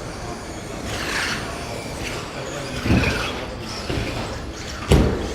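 Stock-class electric RC short-course trucks running on the track, their motors and tyres making a steady mechanical noise with some rising and falling whine. Two thumps stand out, about three and five seconds in.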